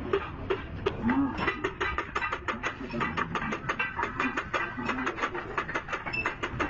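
Rapid, irregular clicking and tapping, several sharp clicks a second, with voices faintly underneath.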